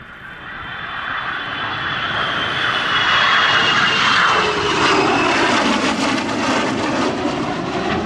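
F-22 Raptor and F-35A Lightning II fighter jets flying past together: the jet engine noise builds over about three seconds, then stays loud while the whine and rumble drop in pitch as they pass.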